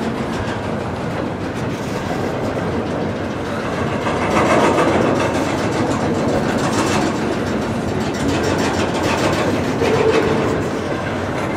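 Double-stack intermodal container cars of a freight train rolling past close by: a steady rumble and clatter of steel wheels on the rails, swelling a little about midway and again near the end.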